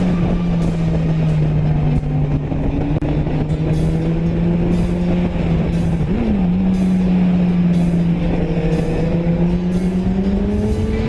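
Sport motorcycle engine running at steady revs, with a quick blip of the revs about six seconds in and the revs slowly climbing near the end.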